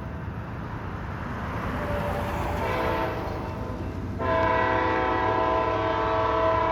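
Amtrak passenger train running past with a steady low rumble, while a locomotive air horn sounds: faint at first, then a loud, sustained multi-note horn blast starting suddenly about four seconds in.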